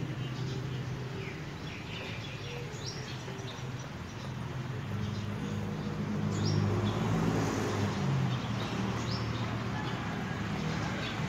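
Small birds chirping: short, high, downward chirps, scattered and irregular, over a low steady hum.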